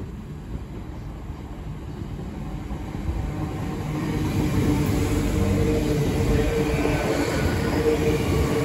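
A Great Western Railway Class 802 bi-mode train, running on its diesel engines, approaches and runs alongside the platform. It grows steadily louder from about three seconds in, with a steady mechanical hum rising over the rumble of the wheels.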